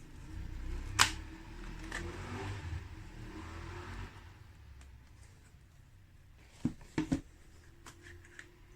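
A few sharp clicks and knocks over a low rumble: one loud click about a second in, a weaker one a second later, then a quick cluster of three near seven seconds. The rumble fades away about four seconds in.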